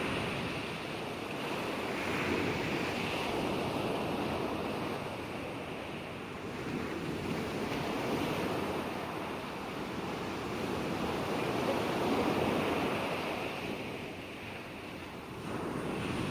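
Ocean waves breaking and washing in a continuous rush of surf, swelling and easing every few seconds, with a touch of wind.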